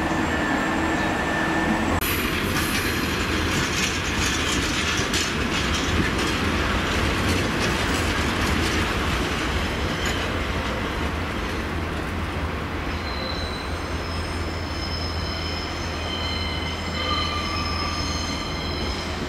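Two-car diesel multiple unit running in over curved pointwork, its engine a steady low drone. From about two-thirds of the way through, its wheels squeal on the curves with several steady high-pitched tones that come and go.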